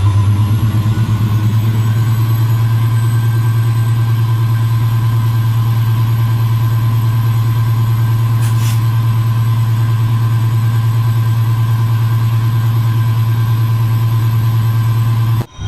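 Railway locomotive running with a loud, steady low hum and a fast pulsing flutter, heard close up. It cuts off abruptly just before the end.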